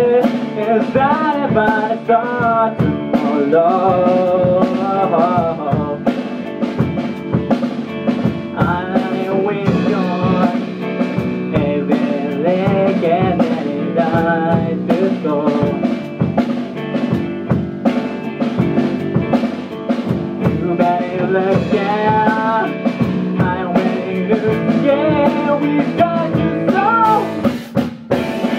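Rock band song with drum kit and guitar under a lead vocal sung in improvised placeholder words, the lyrics not yet written.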